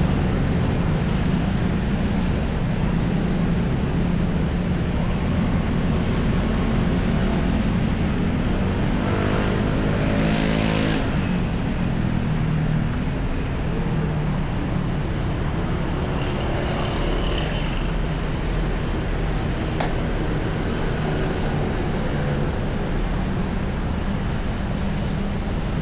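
Street traffic: motor vehicles running with a steady low engine hum, and one vehicle passing close by about ten seconds in, its sound rising and then falling away.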